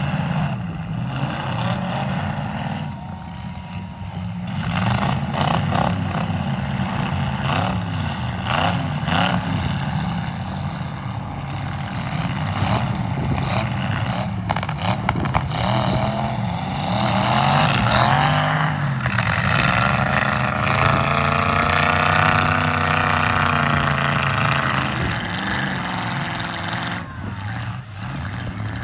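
Several demolition derby cars' engines running and revving, with pitch rising and falling and a long high rev in the second half. Sharp bangs of the cars crashing into each other come at intervals throughout.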